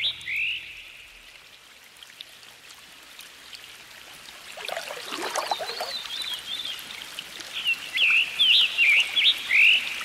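Small birds singing: short, quickly rising and falling chirps repeated in phrases, with a lower, different burst of calls around the middle, over a faint steady trickle of running water. It cuts off suddenly at the end.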